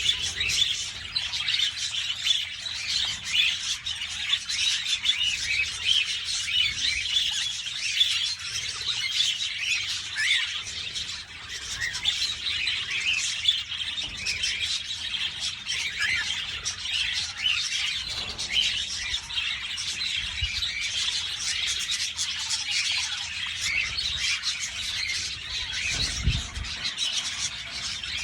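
A flock of budgerigars chattering with dense, overlapping chirps and warbles, without pause, from a busy aviary of feeding birds.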